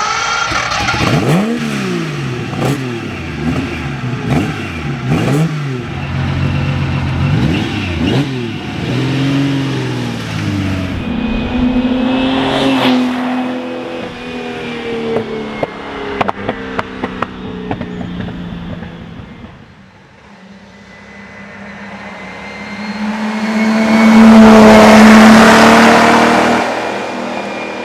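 The Lamborghini Miura P400S's transverse V12 is revved in repeated blips, its pitch climbing and falling, then runs more steadily. About twenty seconds in it goes faint, then builds to a loud drive-past that falls away near the end.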